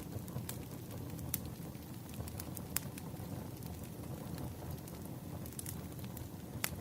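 Burning firewood crackling: a steady low rush of the fire with scattered sharp snaps and pops, the loudest near the end.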